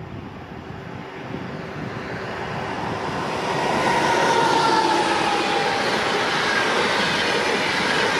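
ICE high-speed electric train approaching and passing along the track. It grows louder over the first few seconds, then holds as a steady loud rush of wheels and carriages. A high whine slides down in pitch as it nears.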